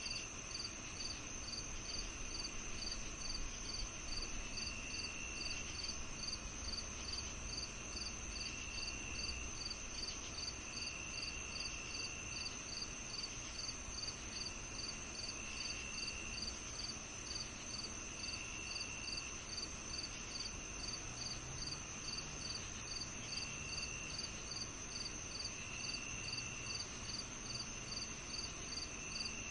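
Crickets and other night insects calling together: one steady high trill, regular chirps about twice a second, and a lower trill of about a second that comes and goes every few seconds.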